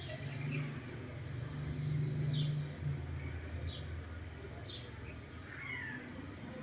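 Small birds chirping in short high notes, several times, over a low hum that swells for the first few seconds and then eases.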